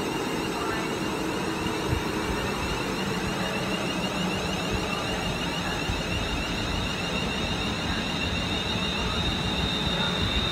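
Class 350 electric multiple unit pulling away, its traction equipment giving a steady high electric whine over the rumble of the train. The whine grows stronger near the end.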